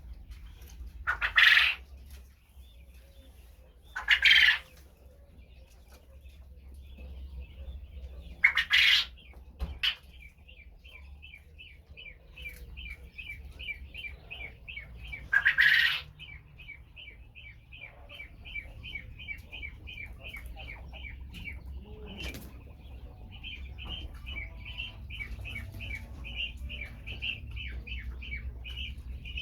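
Caged quail: four short, loud, noisy bursts in the first half, then a long run of rapid high chirps, about three or four a second.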